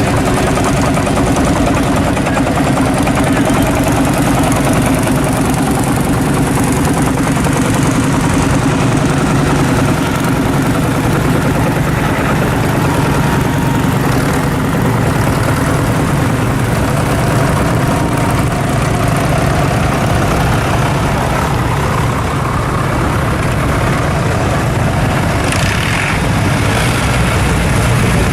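Vintage tractor engine running steadily at a low, even speed, with a brief noisy hiss near the end.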